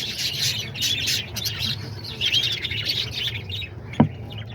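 A flock of budgerigars chattering and chirping, with a single sharp click about four seconds in.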